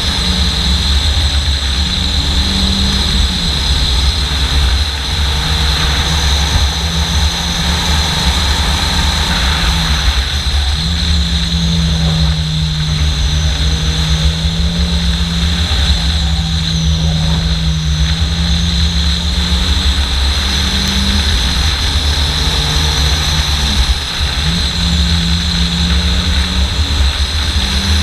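Fiat Seicento Sporting's small four-cylinder engine pulling hard through a slalom run. Its pitch steps up and down as the driver lifts and changes gear, with brief drops several times. A heavy low rumble of wind and road noise buffets the bonnet-mounted camera's microphone.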